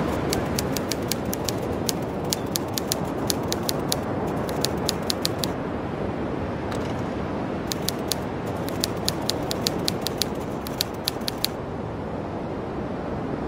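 Typewriter keys clacking in two quick runs of keystrokes, several a second, with a short pause between them, over a steady hiss.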